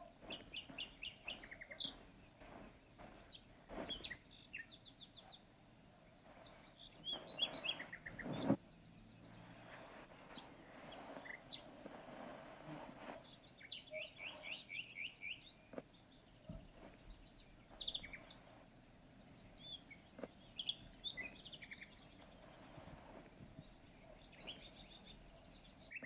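Songbirds chirping in short rapid trills, over a steady high-pitched tone. A rushing noise swells and stops abruptly about eight seconds in.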